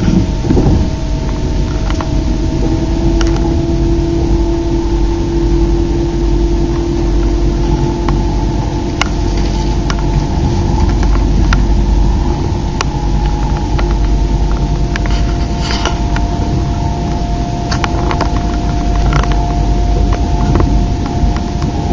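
An ICE 3 high-speed electric train heard from inside a passenger compartment while under way. It makes a steady low rumble with a constant hum of a few held tones, and sharp clicks come now and then as the wheels pass over rail joints and points.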